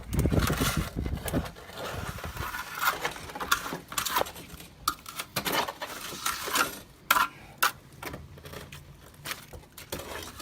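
Water from a rinse spattering and pattering irregularly on a PVC pile jacket, with scattered sharp clicks and knocks. A low rumble of wind on the microphone is heard in the first second or so.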